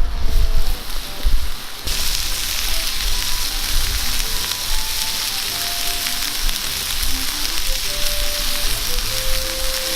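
Wind buffeting the microphone, then about two seconds in food in a frying pan over a campfire starts sizzling suddenly and keeps up a steady frying hiss.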